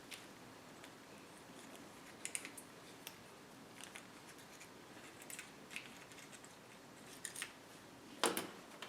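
Light, scattered clicks and clinks of small metal jigsaw blades being handled and sorted through by hand, with a sharper clink near the end.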